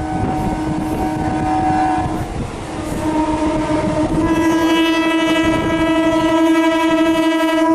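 Locomotive horn sounding twice: one blast ending about two seconds in, then a second, longer and louder blast from about three seconds in, over the rumble of a running train.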